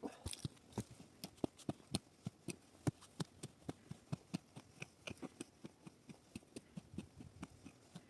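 A quick, uneven series of light, sharp taps or knocks, about four a second, some much louder than others.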